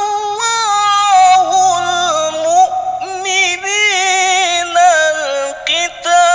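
A man's voice reciting the Quran in melodic tilawah style, holding long high notes with wavering ornaments, with a brief break about five and a half seconds in.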